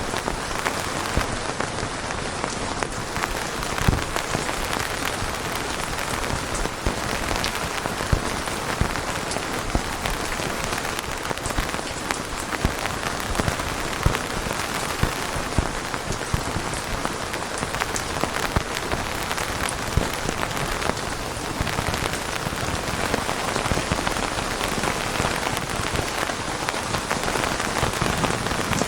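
Steady, heavy rain falling on a surface, with a dense hiss and frequent individual drop impacts.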